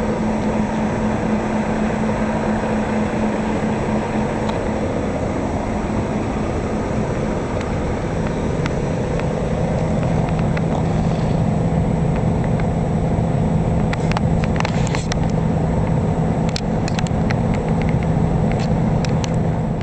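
Semi-truck engine running steadily as the truck manoeuvres, its note dropping to a lower pitch about eight seconds in. Several sharp clicks come in the last few seconds.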